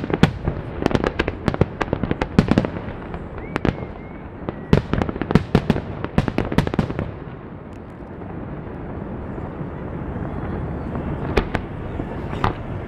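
Aerial fireworks display: a rapid run of sharp bangs from bursting shells for about the first seven seconds, dropping to a low rumble, then a few more bangs near the end.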